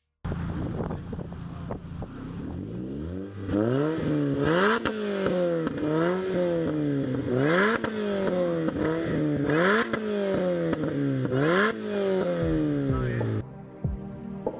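A vehicle engine being revved over and over, its pitch climbing and falling about once a second, then cutting off suddenly near the end.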